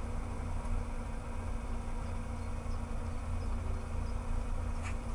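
Mazda RX-8's two-rotor Wankel engine idling steadily, a low rumble, with other cars idling in the queue behind it. A brief click near the end.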